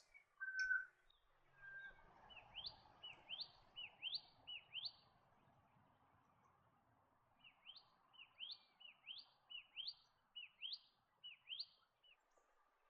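A bird calling two series of short whistles, each dipping and then rising sharply, about two a second, faint over a light background hiss.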